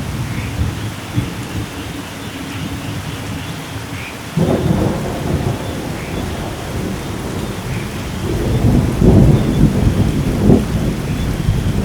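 Thunderstorm: steady rain with rolling thunder, a sharp crack of thunder about four seconds in and a heavier, louder rumble from about two-thirds of the way through.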